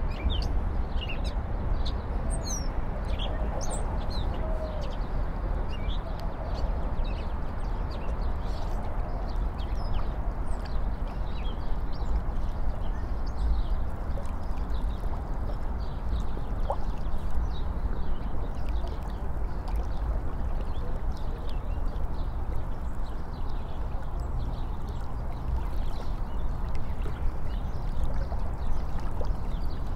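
Birds chirping and calling, many short calls throughout and busiest in the first few seconds, over a steady low background rumble.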